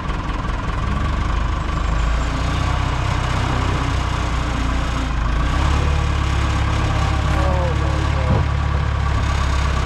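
1967 JCB 3C Mk 2 backhoe loader's diesel engine running steadily while its hydraulics are being tested. The low engine note grows slightly stronger about halfway through.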